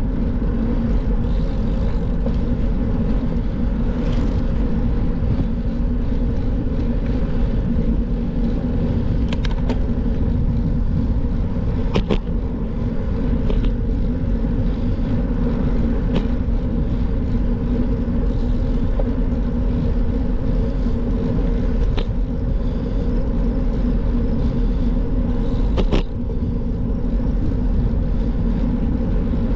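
Steady rumble of wind and road noise on the microphone while riding a bicycle, with a few sharp clicks.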